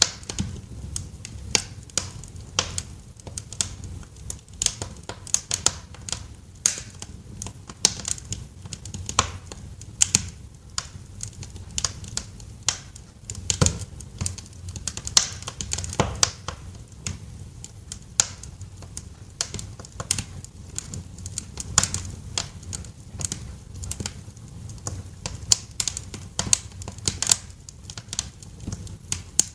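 Wood fire crackling in a fireplace: irregular sharp pops and snaps, some louder than others, over a low steady rumble of the burning fire.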